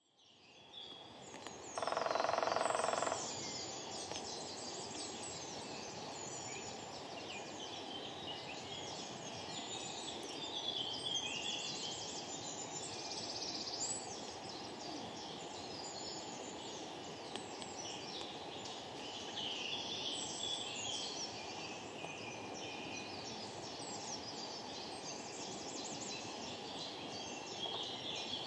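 Spring woodland birdsong, with several small birds singing and calling over one another in high twittering phrases. About two seconds in, a louder, lower, pitched sound lasts about a second.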